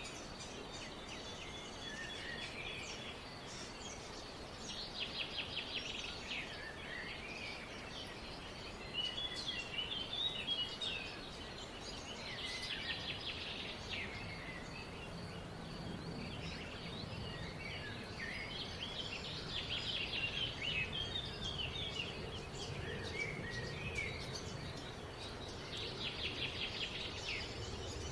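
Several birds chirping and singing, with bursts of high chirps and quick trills every few seconds over a steady background hiss.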